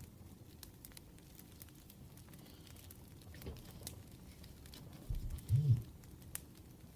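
Wood fire crackling with scattered sharp pops over a low rumble. A short, low thump about five seconds in is the loudest sound.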